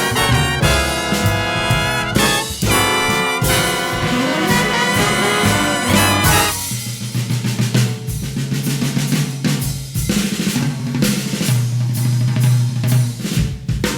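Jazz big band playing: the brass section plays full ensemble lines for about six seconds, then drops out, leaving the drum kit playing busy snare and bass-drum figures over a low bass line.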